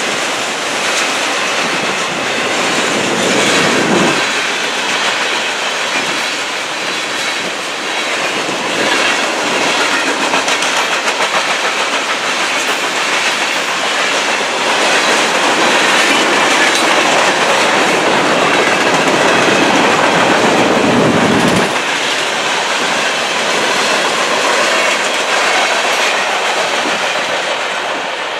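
Freight train cars rolling past at speed over a road crossing, with a steady rumble and the clatter of wheels on the rails. It trails off near the end as the last car clears.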